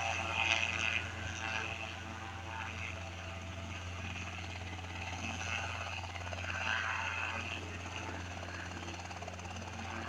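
Helicopter running with a steady low drone.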